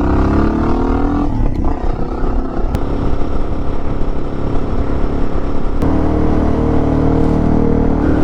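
Suzuki DR650's single-cylinder engine under way, rising in pitch as it accelerates for about the first second. It then gives way to rough wind and road noise, and settles into a steady drone from about six seconds in.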